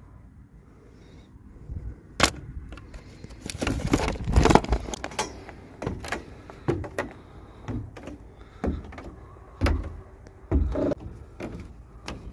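Plastic toy packaging and miniature doll pieces being handled: a run of sharp clicks and taps that starts about two seconds in, with a burst of crinkling and rustling around four to five seconds.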